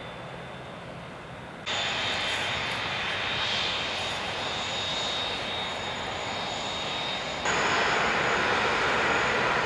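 Turbofan engines of a taxiing Airbus A380: a steady jet noise with a high whine on top. It gets much louder suddenly, once less than two seconds in and again near the end.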